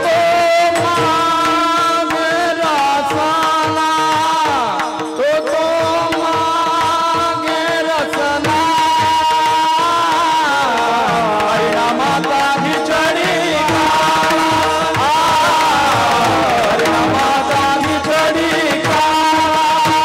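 Kirtan devotional music played without words: a held melody gliding over steady drone tones, with hand-drum strokes throughout.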